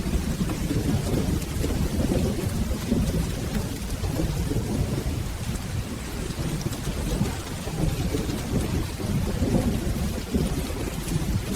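Steady rain with a continuous low rolling rumble of thunder.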